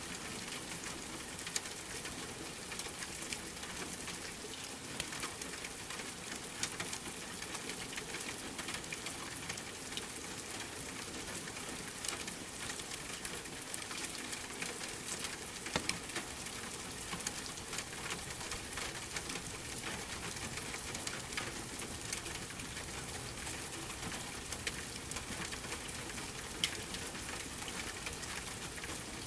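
Steady rain mixed with a crackling wood fire: an even hiss dotted with many small sharp pops, a few of them louder.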